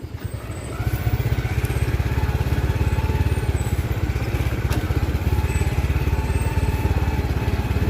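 Engine running close by, with rapid even firing pulses; it picks up about a second in and then holds steady under load.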